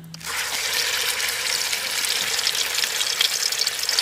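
Food frying in hot oil in a pan: a loud, dense sizzle full of crackling pops, which starts abruptly about a quarter second in.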